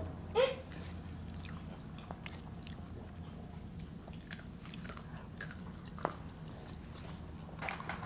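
Close-miked eating: quiet chewing with scattered small crunches and mouth clicks as tortilla chips and a burrito are eaten, over a faint low hum. A short falling squeak about half a second in.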